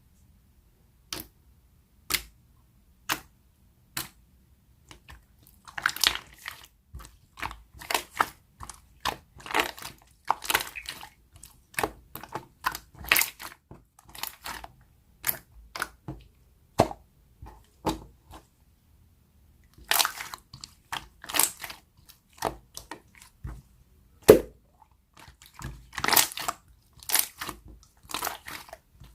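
Slime being pressed and squished by hand, giving sharp clicking and crackling pops. A few single clicks about a second apart come first, then dense runs of crackling, with one louder snap about three quarters of the way through.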